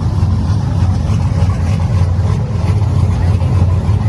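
Pickup truck engine idling, a steady low rumble with no revving.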